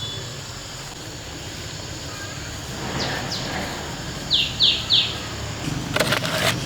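A small bird giving short, sharply falling chirps: two about three seconds in, then three in quick succession, over a steady background hum of outdoor ambience. Near the end a brief scratchy noise cuts across.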